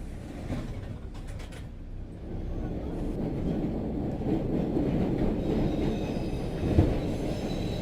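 Train running on its rails: a steady low rumble that swells about two seconds in, with a single thump near the end.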